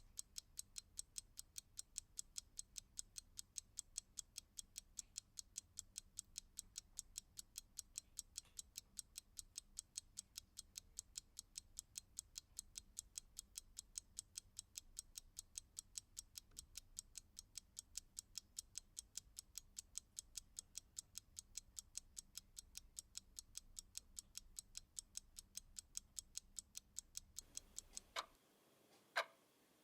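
Clock ticking fast and evenly, about four to five ticks a second, over a faint low hum. Near the end the fast ticking stops and a slower, louder tick, about once a second, takes over.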